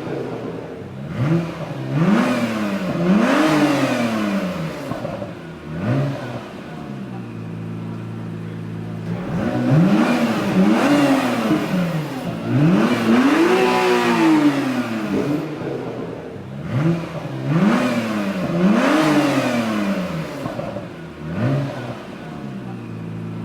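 2017 Acura NSX's twin-turbo V6 engine being free-revved: a series of quick blips, each rising and falling in pitch, in clusters with steady idle between them.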